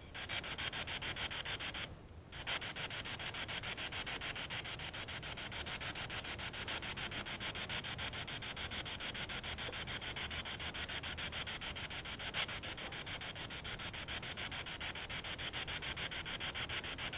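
Spirit box sweeping through radio frequencies: a steady hiss of static chopped into rapid, even pulses, with a brief dropout about two seconds in.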